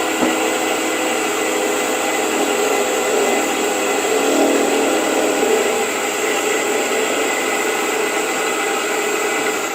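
Woodworking lathe running steadily, a constant whir, while a shine polish is rubbed onto the spinning wooden lid.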